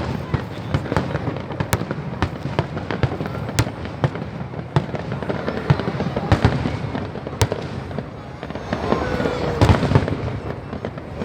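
Fireworks going off: an irregular run of sharp bangs and crackles over a continuous low rumble.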